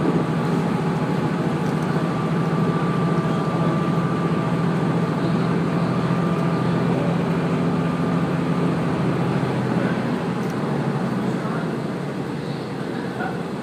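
Diesel railcar running under power along the line, a steady engine hum with a held tone, easing slightly near the end.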